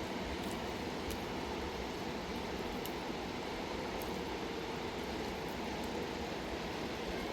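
Fast-flowing river rushing in a steady, even roar of water.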